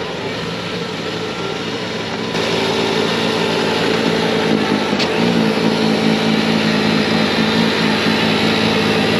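Bobcat T66 compact track loader's diesel engine running at full throttle while driving its snowblower attachment, a steady machine drone that gets louder a little over two seconds in.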